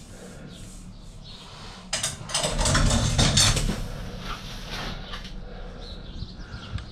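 Scrap metal clattering and clanking as it is handled, a burst of rattling about two seconds in that lasts a couple of seconds, followed by a few lighter knocks, over a steady low hum.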